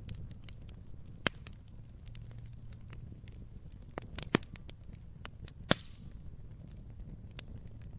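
Wood fire crackling: irregular sharp pops and snaps over a low steady rumble of burning, with three louder pops, one about a second in and two more just past the middle.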